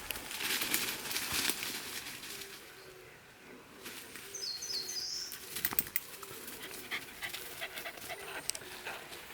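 A Welsh corgi panting and scuffling along a wet dirt trail, with footsteps rustling over it. About four and a half seconds in, a wild bird gives a quick run of high chirps.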